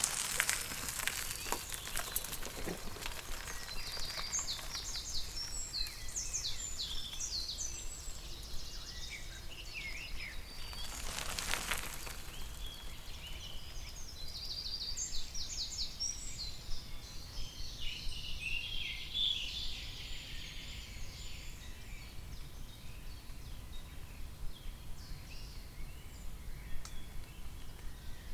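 Songbirds singing and calling in a forest, many short chirping phrases overlapping, over a steady low background rumble. A few clicks and rustles come in the first couple of seconds, and a brief rustling whoosh about eleven seconds in.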